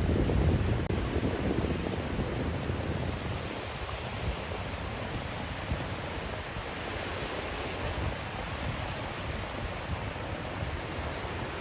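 Steady white-noise sleep track: an even rushing hiss with a deep rumble underneath. The rumble is strongest in the first second, and the hiss grows brighter a little past the middle.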